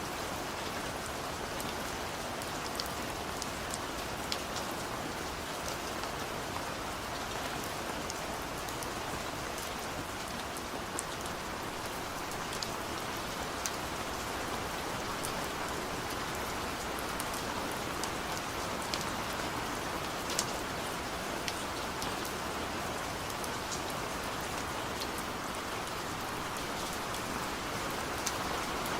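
Heavy rain falling steadily, with scattered sharp drop impacts standing out.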